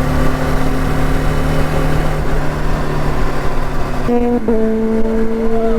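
BMW G 310 GS single-cylinder engine running steadily at highway speed, with wind and road rush. About four seconds in its note steps up to a higher pitch, then steps again half a second later. The bike is new and being run in by alternating faster and slower riding.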